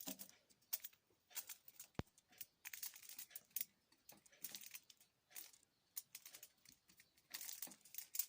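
Faint scattered clicks, taps and rustles of small parts being handled during reassembly of a compressor piston and bearing, with one sharp click about two seconds in.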